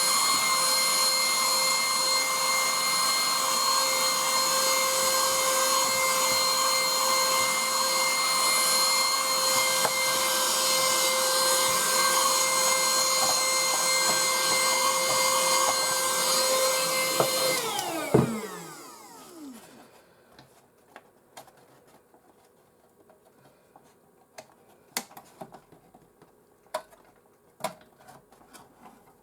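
Electric dust-cleaning motor running at a steady high whine over a rushing hiss while clearing dust out of the console. It is switched off about 17 seconds in and spins down, its whine falling away. Small clicks and knocks from handling parts follow.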